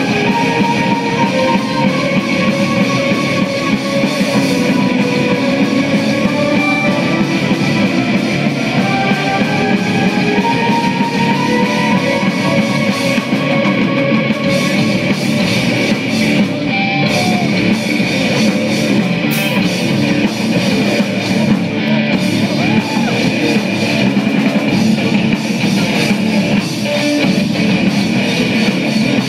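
Rock band playing live: electric guitars with held notes over a drum kit, loud and continuous.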